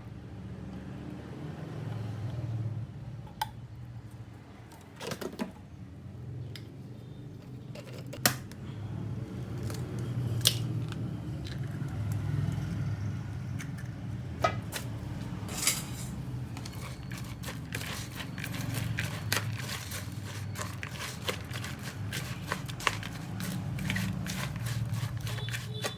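Kitchen cooking sounds: scattered clicks and scrapes, then a dense run of small crackles from about halfway on, over a steady low hum.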